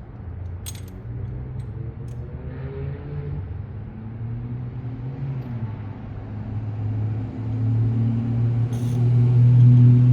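A low engine-like hum with a few pitch steps, building to its loudest near the end and falling off right after, with a couple of brief metallic clicks.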